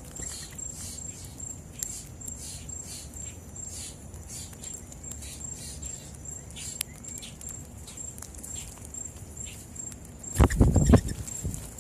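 Outdoor morning ambience with a steady high, faintly pulsing insect trill and many short scratchy ticks. About ten and a half seconds in comes a brief loud, deep rumbling burst.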